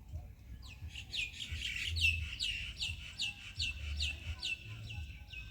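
A bird singing a fast run of repeated, down-slurred chirps, about three a second, starting just under a second in.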